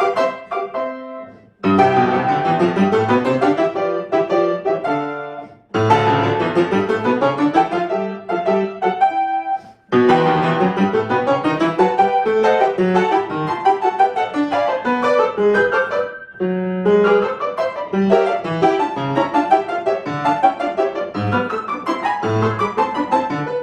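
Solo piano playing a classical-style piece in short phrases, with brief pauses where a phrase ends and the next begins.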